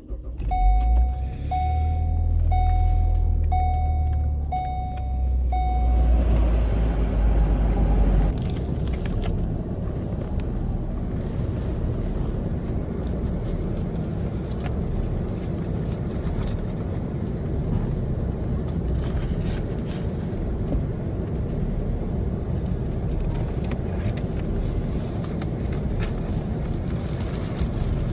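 A car's engine starting and running in the cold with a strong low rumble, while a warning chime beeps about five times in the first few seconds. After about eight seconds the rumble drops and a steady rushing noise carries on.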